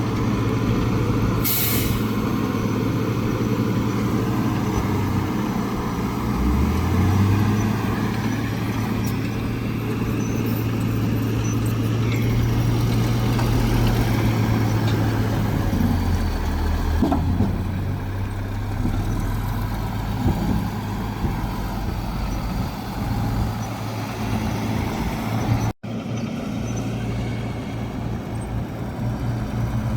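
Heavy diesel earthmoving machinery, a bulldozer and a dump truck, running under load, with the engine note shifting up and down as they work. A short hiss of air comes about a second and a half in, and the sound cuts out for a moment near the end.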